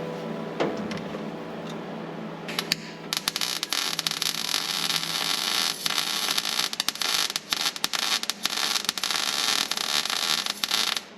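Welding arc on a sheet-steel torque-box seam, a dense crackling hiss with rapid clicks, running for about eight seconds and cutting off abruptly near the end. Faint music fades out in the first two seconds.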